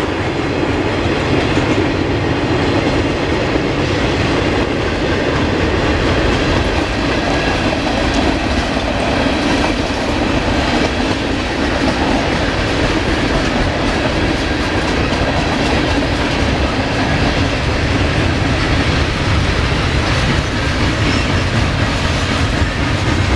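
Freight cars of a mixed freight train rolling steadily past, their steel wheels running continuously on the rails.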